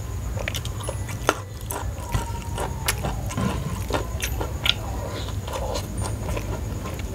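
Close-miked chewing and mouth sounds of a person eating rice and crispy fried chicken by hand: scattered wet clicks and smacks over a steady low hum.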